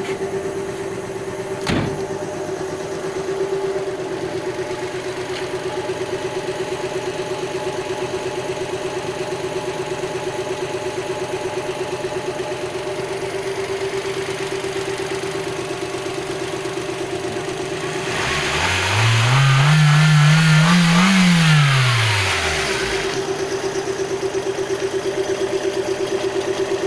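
Nissan SR20DE 2.0-litre four-cylinder engine idling evenly, with one sharp click about two seconds in. About 18 seconds in it is revved once, rising and falling back over some five seconds, then settles back to idle.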